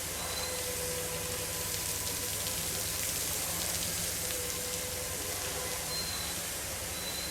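Steady hiss of water spraying from an animatronic elephant's trunk, with faint short tones that come and go.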